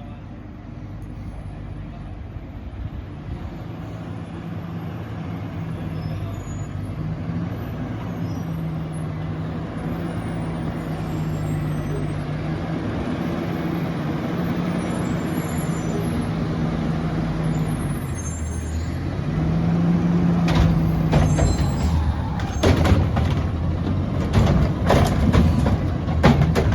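Garbage truck engine running with a steady low hum, growing louder over the first two-thirds. Near the end it gets louder and rougher, with a series of sharp clanks and knocks.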